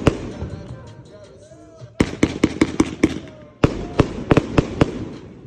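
Fireworks going off: quick clusters of sharp bangs, one at the start, another about two seconds in and a longer run from about three and a half seconds, with voices audible in the gaps.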